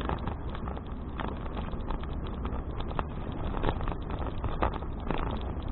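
Wind rumbling on an action camera's microphone while riding a bicycle, with irregular small clicks and rattles from the bike.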